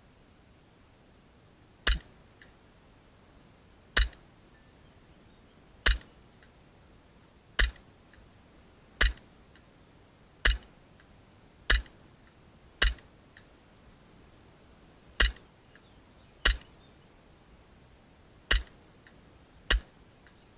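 VFC Glock G17 gas blowback airsoft pistol firing single shots, twelve in all at an uneven pace of one every one to two and a half seconds, each a sharp crack.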